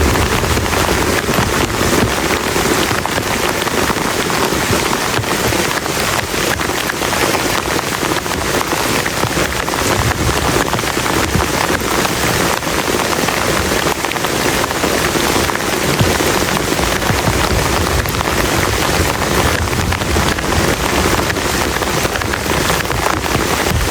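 Heavy rain falling steadily on a plastic tarp, a dense unbroken patter of drops.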